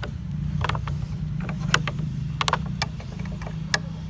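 Several sharp knocks and clicks as a wooden board and its fittings are handled and set in place, over a steady low hum.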